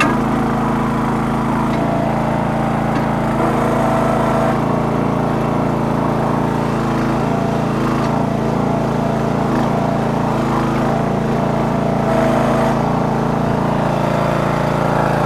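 Towable backhoe's small engine running steadily under hydraulic work, its note shifting slightly now and then.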